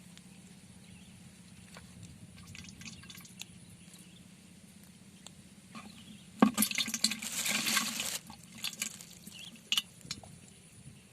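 A sudden splash of water about six seconds in, lasting under two seconds, followed by a few light drips and clicks.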